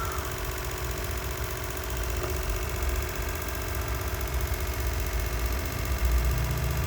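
A steady mechanical hum with a low rumble, the rumble growing louder near the end.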